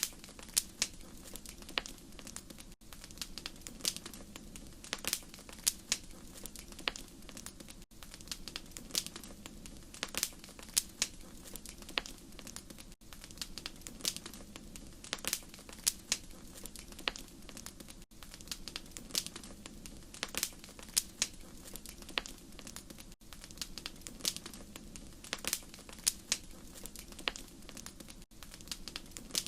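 Wood fire crackling: frequent sharp pops and snaps over a steady low hiss, with a brief dropout about every five seconds.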